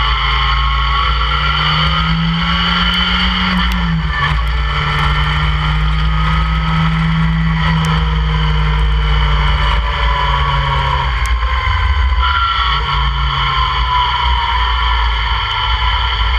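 Open-cockpit track car's engine heard from on board under hard driving, the revs climbing, dropping sharply about four seconds in, then climbing again and falling away around ten to eleven seconds. Wind noise buffets the microphone throughout.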